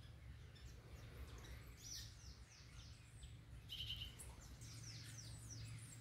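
Faint bird calls: a run of short, high chirps that sweep downward, bunched in the middle, over a steady low hum.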